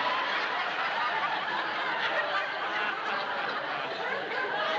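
Studio audience laughing, many voices together in one sustained laugh.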